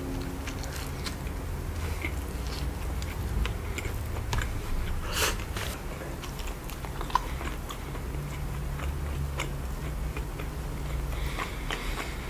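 Close-miked mouth sounds of a man biting into and chewing a saucy burger with lettuce: soft crunches and wet smacking clicks at irregular moments.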